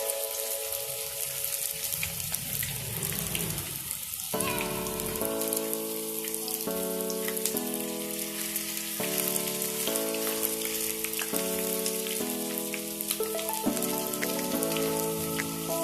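Hot oil sizzling and crackling as flour-coated sweet potato slices fry. Background music of sustained notes comes in about four seconds in.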